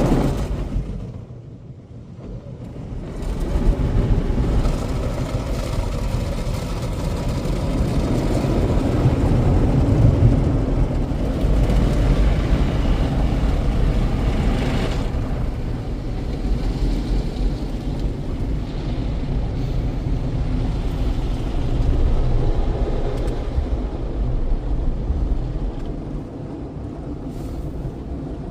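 Automatic car wash equipment (an Istobal Express On Rails wash) running: a steady low rumble with a noisy hiss. It drops away for a second or two near the start, then comes back.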